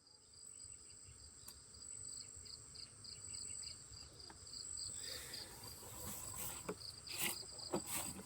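Insects, cricket-like, chirping steadily: a high continuous trill with a quicker pulsed chirp beneath it. A few faint rustles and clicks come in the second half.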